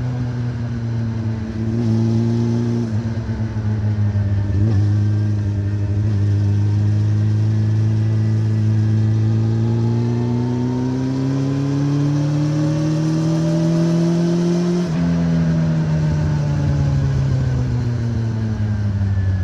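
Honda CB400 Revo's inline-four engine through a Moriwaki exhaust, running under way. The note holds fairly steady, then climbs for several seconds. About three-quarters of the way in it drops sharply, then winds down slowly.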